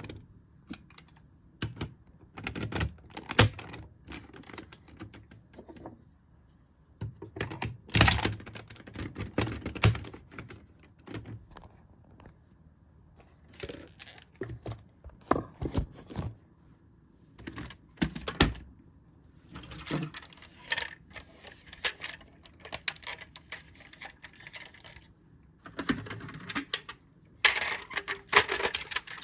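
Hard plastic toy robot parts of the DX Zyuohger cube mecha being handled and fitted together: irregular clicks, clacks and snaps with short pauses between them. The busiest, loudest clatter comes about eight seconds in and again near the end.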